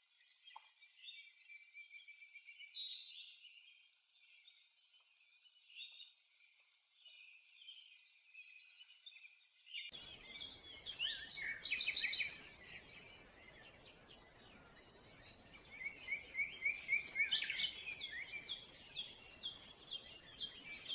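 Wild birds calling and singing, several voices overlapping. About ten seconds in the recording changes abruptly to a fuller, louder one with quick runs of repeated call notes, several a second.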